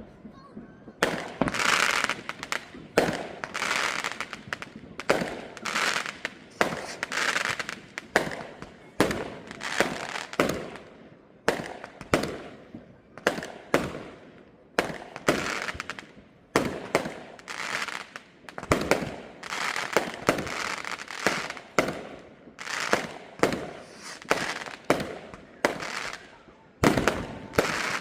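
Fireworks exploding in a near-continuous barrage: sharp bangs come several a second with no pause, each trailing off in crackle and echo.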